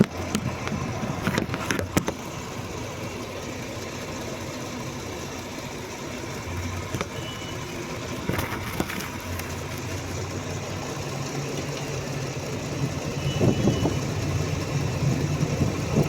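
Idling engine of a 2022 Jeep Grand Cherokee, running with the air conditioning on while refrigerant is being charged in. A steady low hum, with a few light clicks near the start.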